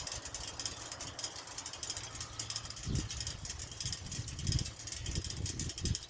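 Wind buffeting the microphone in irregular low rumbling gusts, stronger from about three seconds in, over a steady crackly hiss.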